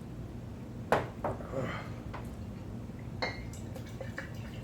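Eating utensils knocking and clinking against a bowl: a sharp knock about a second in, a lighter one just after, and a ringing clink a little past three seconds.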